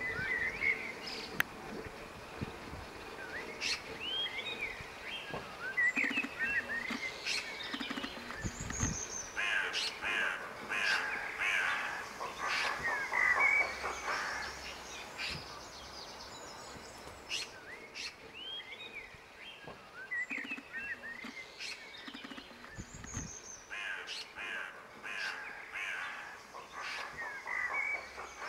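Several wild birds singing and calling in trees: short chirps and warbled phrases come and go in repeated bouts, with a few harsher calls among them.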